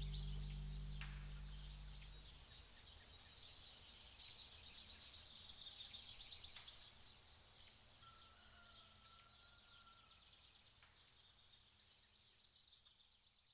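Faint chirping and twittering of small birds, with a thin whistled note a little past the middle.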